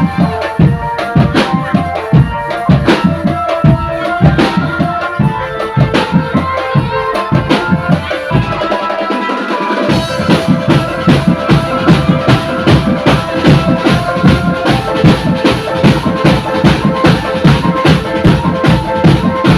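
Street drum band playing: bass drums and snares beating under a stepping melody line. The bass drums drop out for about two seconds midway, then come back with a quicker, denser beat.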